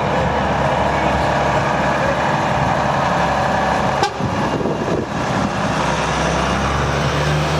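Trucks driving past in a convoy, their engines running.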